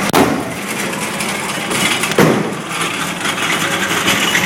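Two sharp bangs about two seconds apart, the first very short and the loudest, over a steady background din.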